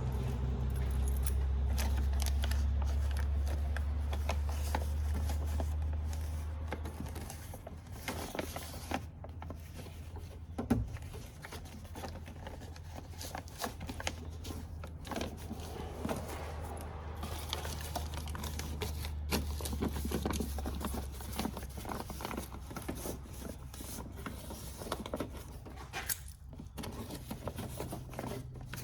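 Small metallic clicks, rattles and scrapes of hand tools and door parts being handled during a car door repair, over a low steady hum that fades about seven seconds in and returns for several seconds midway.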